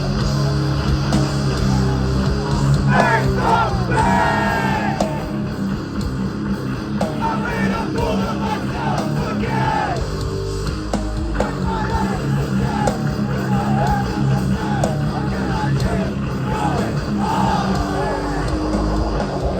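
Hardcore band playing live, loud and heavy, with shouted vocals over the band.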